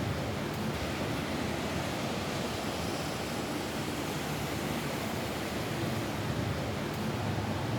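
Steady rain falling on a roof, an even hiss.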